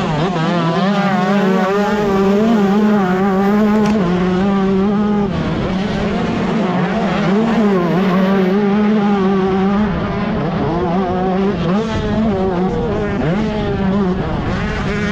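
125cc two-stroke motocross bike racing, its engine revving up and down without a break as the throttle opens and closes.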